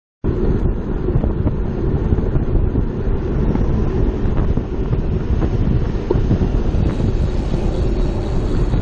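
Wind rumbling and buffeting on a bike-mounted camera's microphone while riding; it cuts in suddenly after a moment of silence and stays loud and steady.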